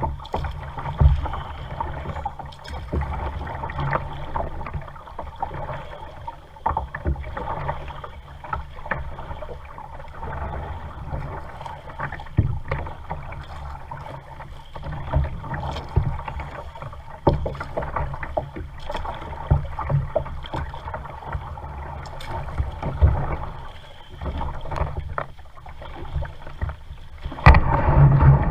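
Kayak being paddled: irregular splashes and knocks of the paddle in the water and against the hull, over a low steady rumble. It gets louder near the end.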